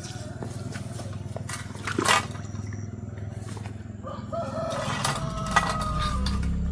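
A rooster crowing, one long held call starting about four seconds in. A sharp knock comes about two seconds in, and a low rumble builds toward the end.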